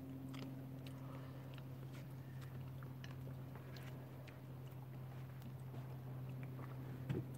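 People eating by hand: faint chewing with scattered small clicks and smacks, over a steady low hum.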